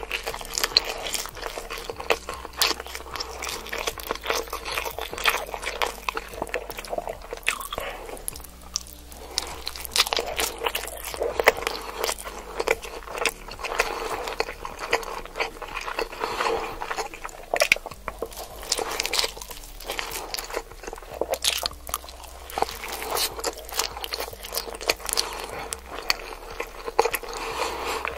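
Close-miked ASMR chewing of a giant salmon nigiri: a steady, irregular run of quick wet mouth clicks and smacks.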